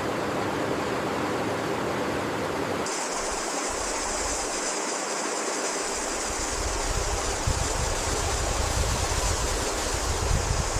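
Steady hiss of rainfall, with a low rumble of wind coming in about three seconds in.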